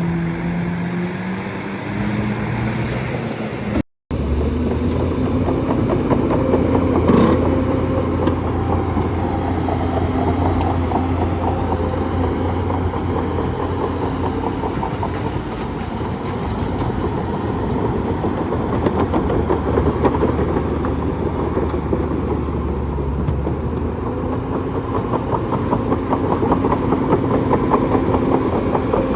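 Bulldozer's diesel engine running steadily. The sound cuts out for an instant about four seconds in, then resumes.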